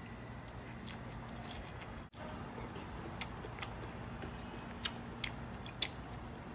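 A person biting and chewing a mouthful of pork rib meat, with a few short, sharp smacks in the second half, the loudest near the end.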